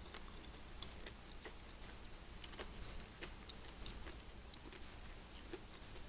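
Faint chewing of a lobster roll, with small irregular mouth clicks and smacks spread through, over a low steady background hum.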